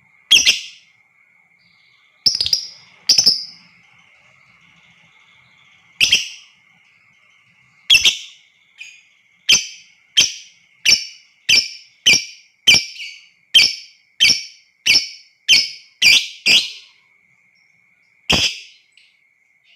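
Lovebird giving short, sharp, shrill calls: a few spaced ones, then a fast regular run of about one and a half calls a second, and a last one near the end. A faint steady high tone runs underneath.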